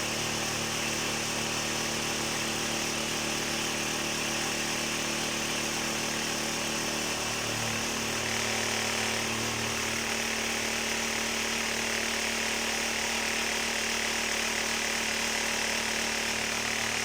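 An electric machine runs steadily, giving a hum and a rattling noise. Its low hum shifts in pitch about halfway through.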